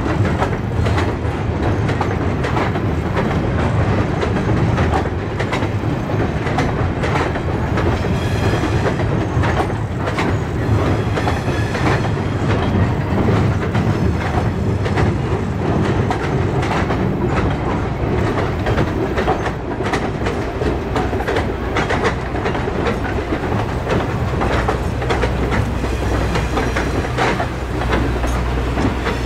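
Passenger coaches rolling across a steel truss bridge: a steady rumble with a running series of wheel clicks. A deeper low rumble builds over the last few seconds.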